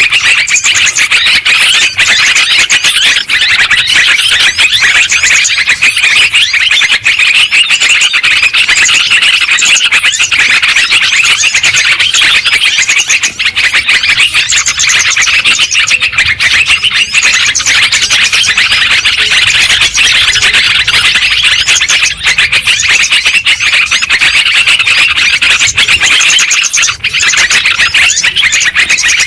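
Yellow-vented bulbuls (terucukan) chattering noisily as a flock, many short bubbly calls overlapping into a dense, unbroken din.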